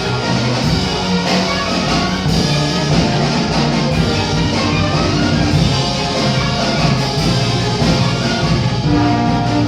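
Orchestral music played live, sustained instrumental notes over a steady beat, with no singing.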